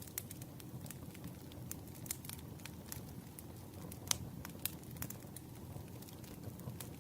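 Campfire burning, with irregular sharp crackles and pops from the wood over a soft steady rumble of flame; one pop about four seconds in is the loudest.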